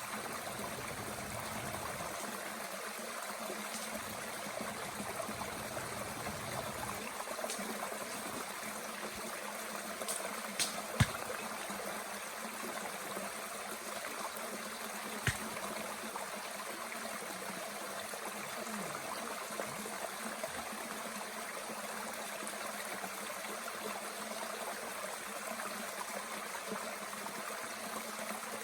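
Mountain stream flowing steadily, with a few sharp pops from a small wood fire burning in a Bushbox twig stove, the loudest about eleven seconds in.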